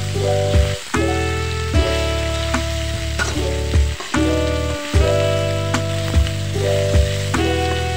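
Chicken liver and vegetables sizzling as they are stir-fried in a metal wok, stirred with a spatula. Background music with a beat runs over it and is the loudest sound.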